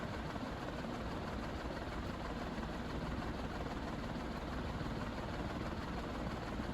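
Aircool 36-inch industrial ceiling fan running steadily at high speed: an even motor hum with the rush of air off its blades.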